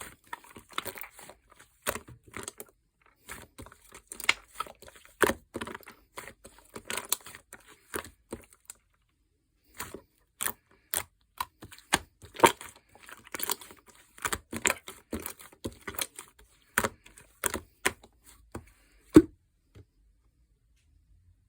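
Hands squishing, pressing and stretching a soft clay-mixed slime, making irregular sticky pops and crackling clicks. There is a brief pause about nine seconds in, and the sounds stop a couple of seconds before the end.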